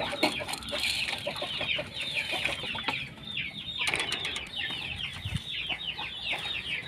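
A cage full of small birds cheeping without pause, a dense stream of quick, high, downward chirps. A few sharp clicks or a brief flutter come around four seconds in.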